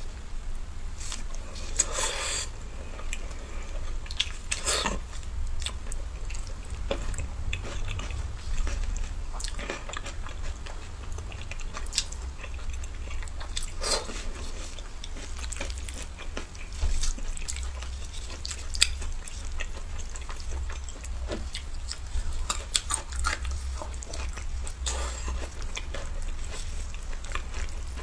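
Close-up eating sounds: wet chewing and lip smacks as a woman eats very tender stewed pork belly, with irregular sharp smacks and squelches from the meat being torn apart with plastic-gloved hands, over a low steady hum.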